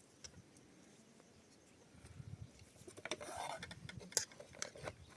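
Scattered light knocks and clinks of objects being handled, starting about two seconds in, with a short scraping rustle in the middle and a sharper click a second later.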